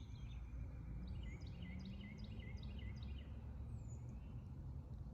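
Songbirds singing: one bird repeats a quick chirped note about eight times in a row, with a few other faint bird calls around it, over a steady low rumble of background noise.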